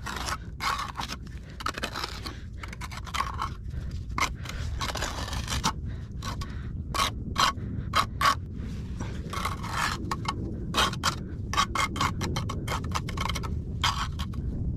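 A hand tool scraping through wet cement mortar in many short, irregular strokes.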